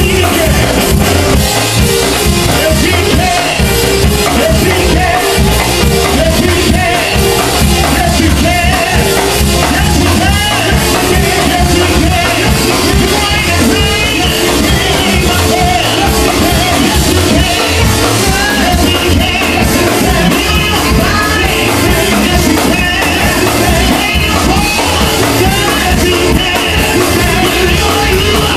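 Live gospel praise-and-worship music: singing over keyboard and a band with a steady, driving beat, loud and unbroken.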